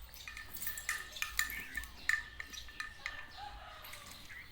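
Short, high chirps and clicks from birds in quick runs, loudest about a second and two seconds in.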